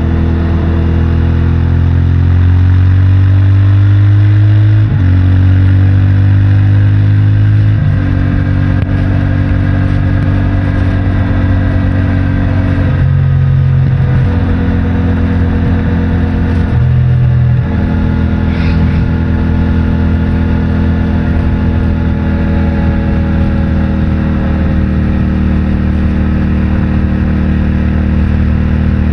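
CFMOTO 450MT's parallel-twin engine through its stock exhaust, pulling hard. The note climbs with several short breaks in the first two-thirds, as at gear changes, then settles into a steady, slowly falling drone, with wind rush underneath.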